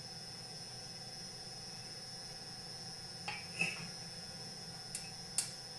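A few light clicks of small steel needle bearings being set into grease on a McCulloch CP125 chainsaw's connecting rod, two close together past the halfway point and two near the end, over a faint steady high-pitched whine.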